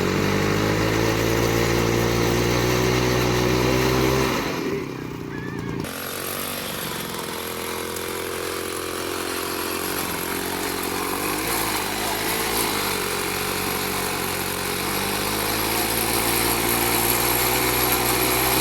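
Small engine of a homemade mini tractor running steadily. It cuts out briefly about four seconds in, then runs again with its speed rising and falling.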